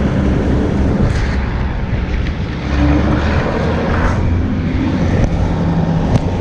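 Diesel farm-machinery engine running steadily.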